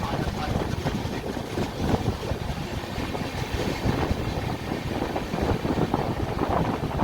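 Passenger train running on the rails: a steady rumbling rattle of the moving coaches with many small irregular knocks.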